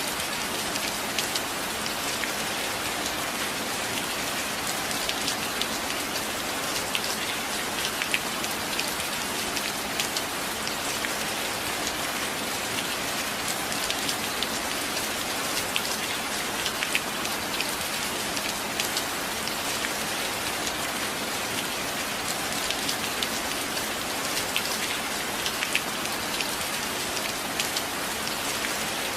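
Steady rain falling on a surface, a continuous even hiss with many small, scattered drop impacts and no thunder.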